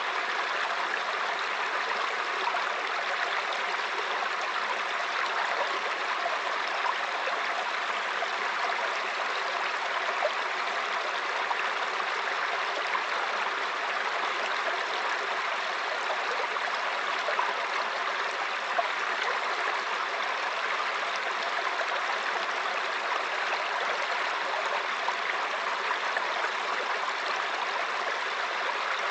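Mountain stream flowing steadily over rocks: a constant babbling and gurgling rush of water.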